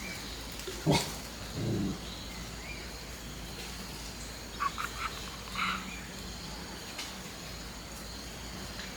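A sharp knock about a second in, then a few short croaking animal calls around the middle, over steady outdoor background noise.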